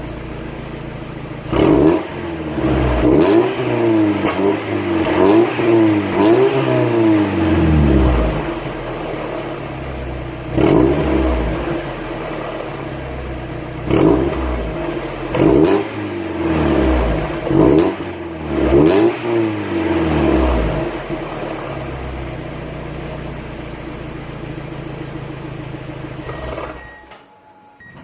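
2002 Mazda Miata (NB) 1.8-litre four-cylinder through a catless exhaust with factory-size piping, the stock resonator and a Goodwin Racing Roadster Sport 3 muffler, idling between a series of quick free-revving throttle blips. Each blip rises sharply in pitch and falls straight back to idle, several in quick succession in the first eight seconds and again from about ten to twenty seconds in.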